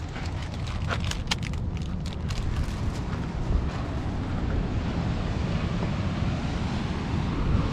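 Wind rumbling on the microphone, with a run of short sharp crackles between about one and three seconds in.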